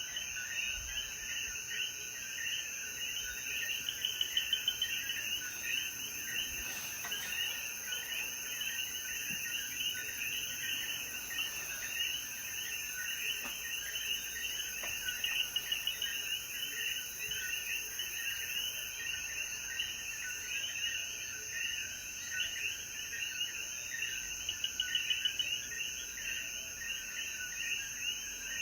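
Chorus of many coquí frogs calling over one another in short rising chirps, with a steady high-pitched insect drone beneath. Short runs of rapid, louder pulsing calls stand out three times: about four, fifteen and twenty-five seconds in.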